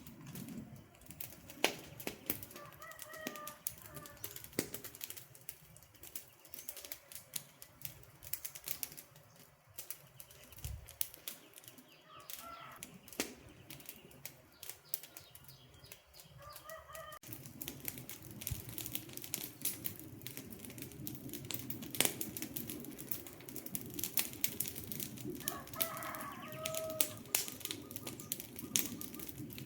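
Wood campfire crackling, with sharp pops and snaps throughout. A bird calls briefly four times, short pitched calls that rise above the crackle.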